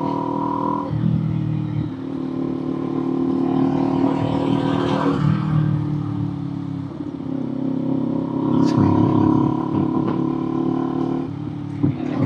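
Kawasaki Z400 motorcycle's parallel-twin engine and exhaust while riding, heard from the rider's position. The engine note holds steady, then shifts to a new pitch several times as the revs change.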